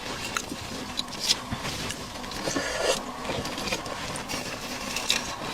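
A person chewing and smacking seafood, with scattered wet clicks and smacks at irregular intervals.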